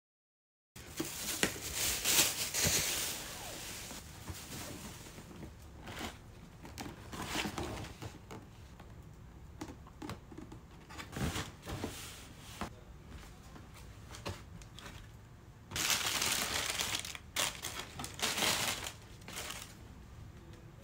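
Paper packaging being handled: bursts of crinkling and rustling, with scattered knocks and taps in between, and the longest bursts near the start and again about three-quarters of the way through.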